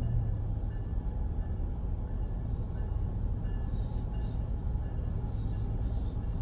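Brightline diesel-electric passenger train passing over a grade crossing, heard from inside a car waiting at the crossing: a steady low rumble, with a hiss of wheels on rail joining about four seconds in.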